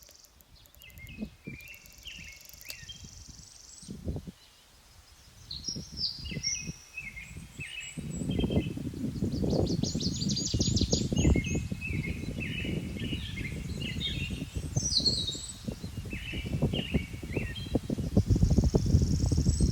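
Several songbirds singing and calling in short chirps and trills. From about eight seconds in, a louder low rumbling noise runs under the birdsong.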